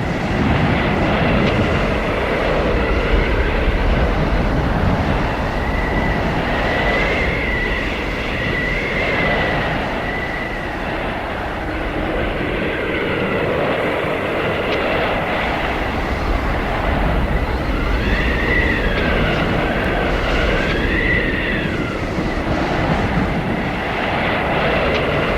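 Blizzard wind howling: a steady rushing roar of gusts with high whistling howls that swell and waver up and down in pitch, most strongly twice.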